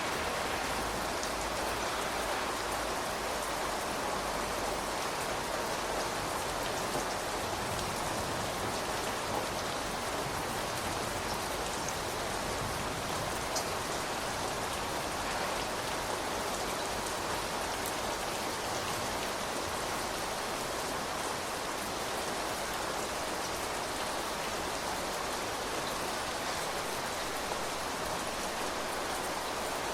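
Steady rain falling on outdoor surfaces, an even patter with a few separate drops ticking now and then.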